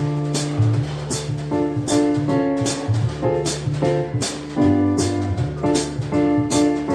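Live jazz instrumental passage: keyboard playing sustained chords over a moving bass line, with a drum kit keeping time in steady strokes about twice a second. No singing.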